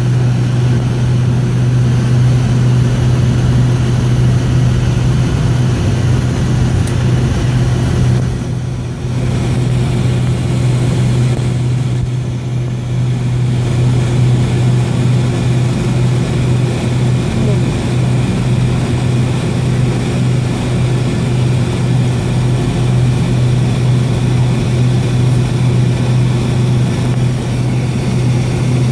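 Cabin noise of a Boeing 757-232 on the ground before takeoff, its two Pratt & Whitney PW2037 turbofans running at low thrust: a steady low drone with a fainter hum above it and an even rush of air. It dips briefly twice, about nine and twelve seconds in.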